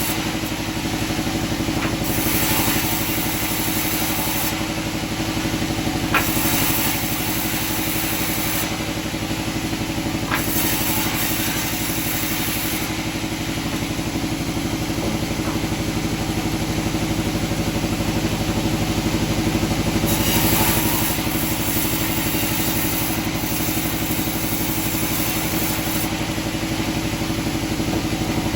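Sawmill machinery running steadily with a constant engine hum. A high hiss rises and falls several times over it, and two sharp knocks come about six and ten seconds in.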